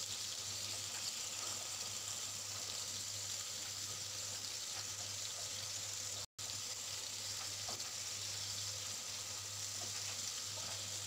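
Chicken wings sizzling in hot oil in a wok: a steady frying hiss. It breaks off for an instant about six seconds in.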